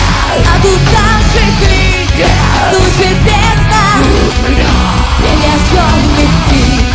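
Rock band playing live, loud and dense, with a singer's voice over the band.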